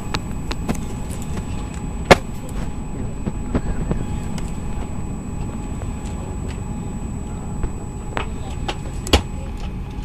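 Airliner cabin ambience on the ground: a steady low rumble of ventilation and engine noise with a faint high whine, broken by scattered clicks and knocks, the sharpest about two seconds in and another near the end.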